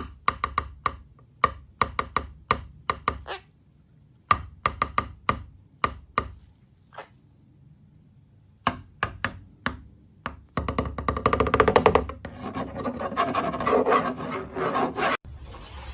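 Clusters of quick, sharp wooden-sounding taps or knocks, several a second, with pauses between the clusters. About two-thirds of the way in they give way to a denser, continuous clatter.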